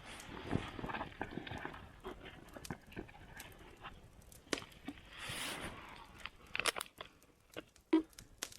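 Rustling, crunching handling noises with scattered sharp clicks and snaps, busiest near the end.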